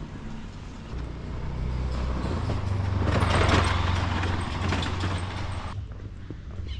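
A motor vehicle passing close by on the road: a low engine rumble and road noise that build to a peak about three and a half seconds in, then fade away.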